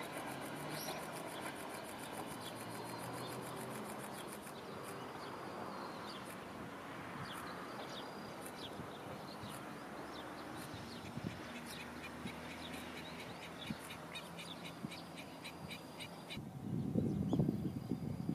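Distant electric express train running away, its rumble slowly fading, with bird chirps and a rapid high ticking trill over it. Two loud low rumbles come near the end.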